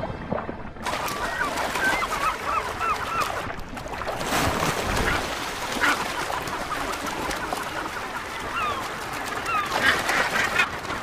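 A northern gannet colony calling: many birds' short cries overlapping over a constant din, starting about a second in.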